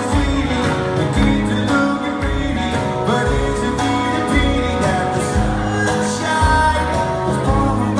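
Live rock band playing a song with singing, over a steady beat.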